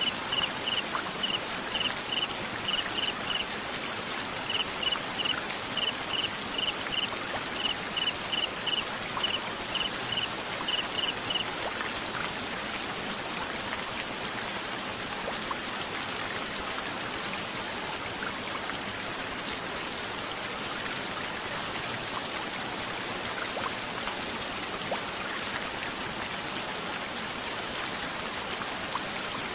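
Steady wash of rain noise throughout. Over it, for about the first eleven seconds, a cricket chirps in short pulses at one high pitch, grouped in twos and threes, then stops.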